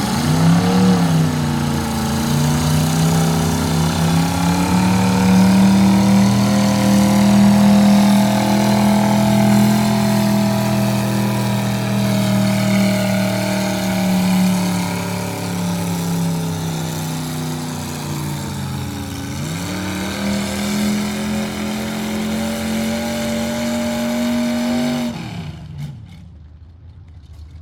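Pulling truck's engine held at high revs under full load as it drags the sled. The revs climb at the start, hold steady, dip briefly about 19 seconds in and climb again, then drop away near the end as the pull finishes.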